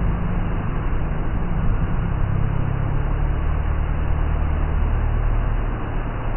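A motor vehicle engine running with a steady low drone, its pitch shifting down a little about two seconds in and again near five seconds, as with a change in engine speed.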